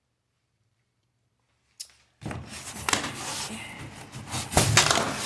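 Cardboard box and packing material being handled during an unboxing: after a quiet start and a single click, a continuous rustling begins about two seconds in, broken by several sharp knocks.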